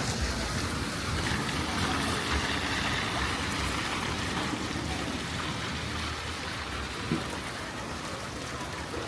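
Rain falling steadily, with one short knock about seven seconds in.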